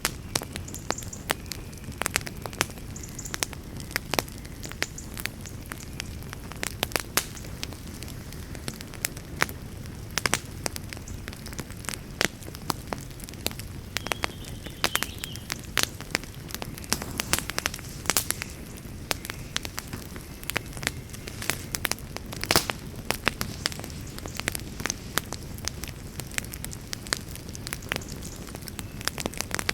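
Campfire burning with irregular sharp crackles and pops over a steady low rush. One pop near the end is louder than the rest.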